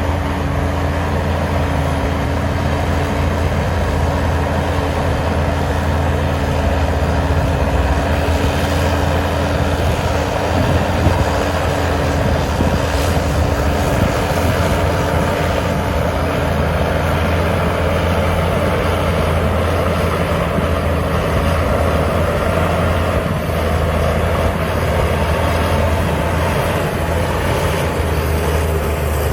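Heavy diesel earthmoving machinery running steadily with a deep engine hum, with two brief knocks near the middle.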